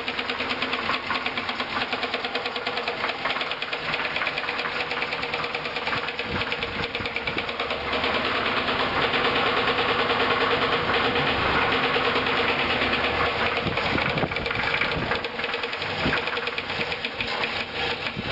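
1965 Buick Skylark's long-dormant 300 V8 running steadily with a rapid upper-end knock, getting a little louder about eight seconds in. The owner suspects a stuck lifter.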